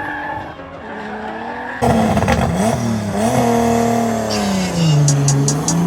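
Race car engine revving hard, its note climbing and falling repeatedly, the sound of a car drifting on track; it jumps abruptly louder about two seconds in. A fast, even high ticking comes in near the end.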